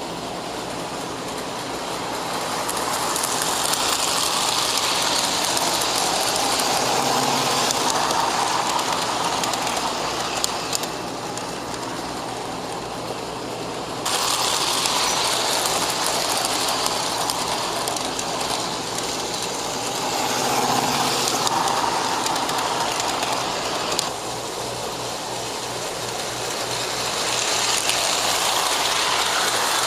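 O gauge Lionel GP9 model locomotive running on track, its motor and wheels giving a steady whirring rumble that swells and fades every few seconds, with two abrupt changes in level.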